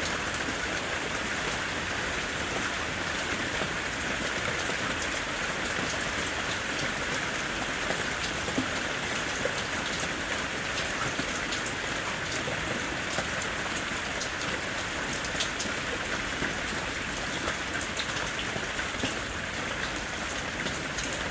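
Rain falling steadily on a surface, an even hiss of rain with many scattered sharper drop hits.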